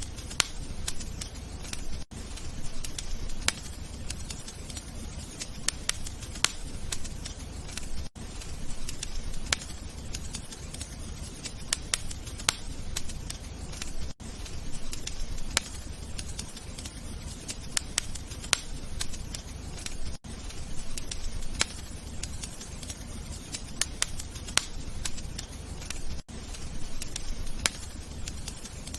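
Wood fire crackling, with many sharp pops and snaps over a low steady rumble. A brief drop-out comes about every six seconds.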